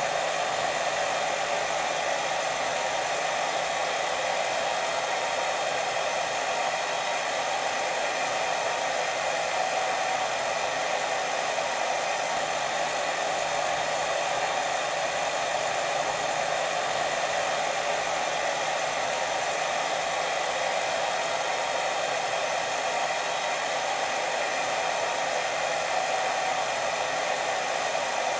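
Steady white noise for sleep: an even, unbroken hiss with a fuller band in the middle, no rise or fall.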